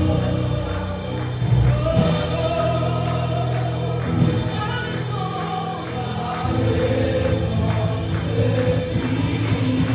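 Gospel worship music: a choir singing over a band with a steady low bass line and a drum beat.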